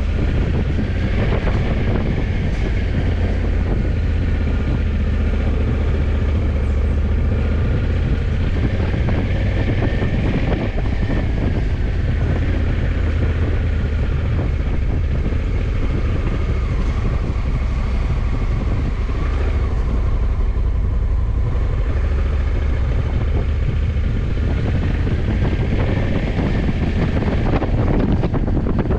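Honda CRF1100 Africa Twin's parallel-twin engine running under way at a steady pace, its pitch drifting gently up and down, with wind rushing over the microphone.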